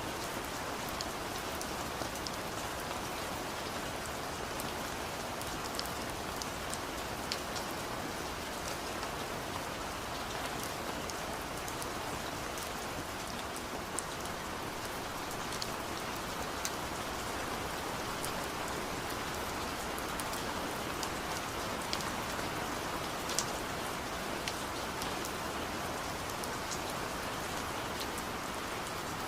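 Steady rain falling, with a constant patter and individual drops ticking sharply here and there.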